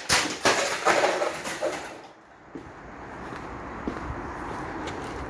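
Hoover 16-inch desk fan being smashed: a loud crash, then a clatter of breaking and rattling parts that dies away after about two seconds.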